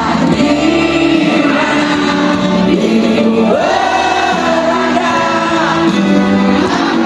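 Music with many voices singing together, choir-like, over an accompaniment, through a public address system.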